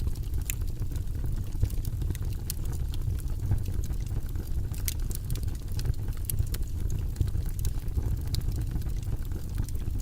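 Fire burning in a fireplace, crackling: a steady low rumble with frequent, irregular sharp crackles and pops.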